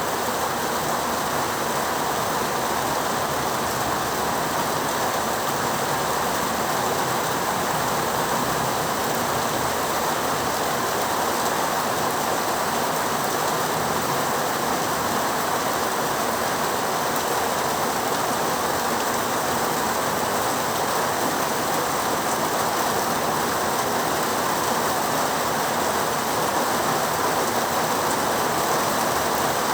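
Heavy rain falling steadily, an even, unbroken hiss of downpour with no thunder.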